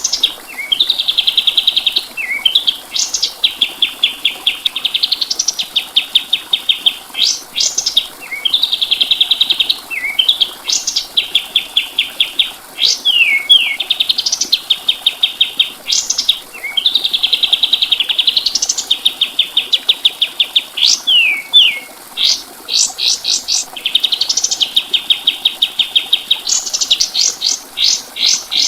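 Kapas tembak songbird singing continuously: fast, even trills lasting a second or two each, run together with quick rising and falling whistled notes, the phrases repeating over and over.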